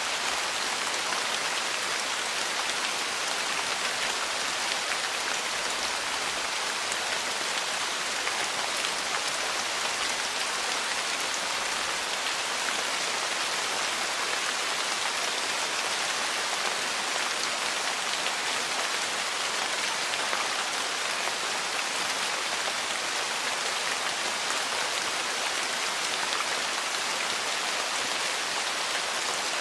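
Steady rain falling, an even hiss with fine ticks of individual drops.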